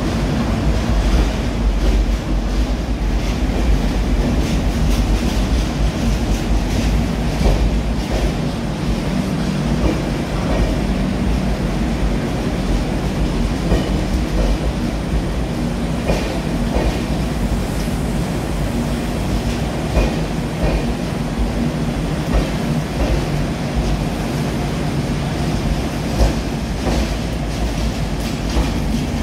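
Coromandel Express LHB passenger coaches rolling along a station platform: a steady wheel-and-rail rumble with irregular clicks as the wheels cross rail joints.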